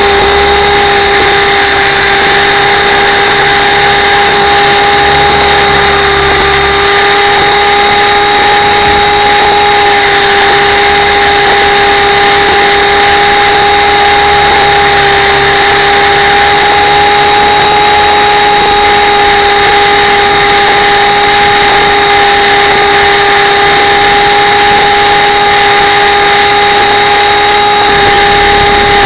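Radio-controlled camera helicopter's motor and rotors, heard from on board as a loud, steady, high-pitched buzz that holds one pitch throughout.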